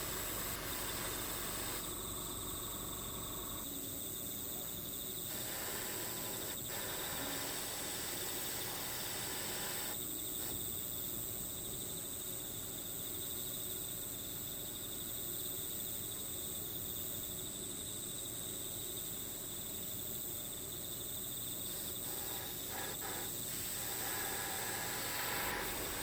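Steady chorus of insects chirring, with continuous high trilling over a soft hiss.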